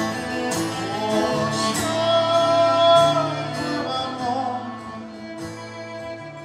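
Acoustic guitar and cello playing an instrumental passage between verses of a song, with a long held note about two to three seconds in; the music grows quieter near the end.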